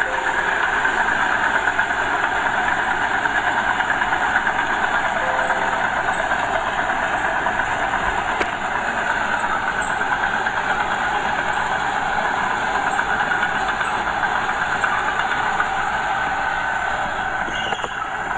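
Small Komatsu crawler bulldozer working, its diesel engine running under load with a steady, dense clatter of the tracks.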